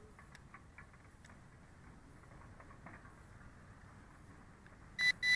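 Two short, high electronic beeps from a toy quadcopter's remote control, such as confirm a button press or rate change, near the end; before them only a few faint clicks over near silence.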